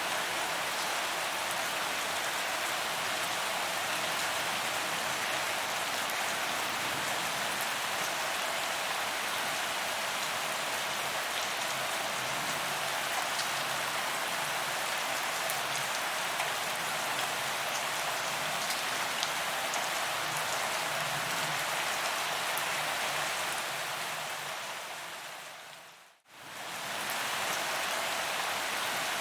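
Steady, dense rain falling on a paved promenade, an even hiss of drops on the ground. Near the end it fades quickly to silence and comes straight back.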